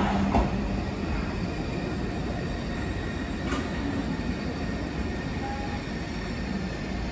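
Berlin S-Bahn class 485 electric train pulling away down the track, a steady rumble of wheels on rails that slowly grows fainter. A low hum dies out in the first half second.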